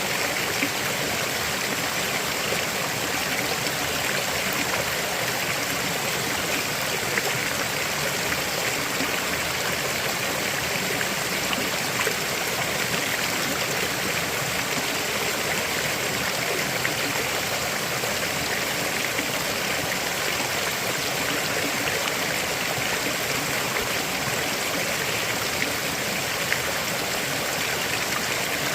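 River water flowing over rocks: a steady rushing and babbling that does not change.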